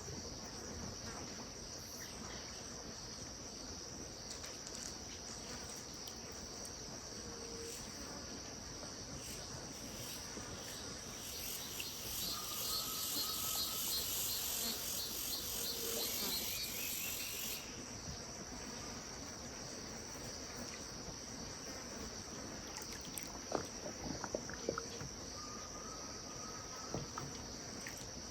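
Evening insect chorus on a riverbank: a steady high drone, joined about twelve seconds in by a louder, pulsing insect buzz that cuts off suddenly some five seconds later. A few short calls and a scatter of small clicks sound near the end.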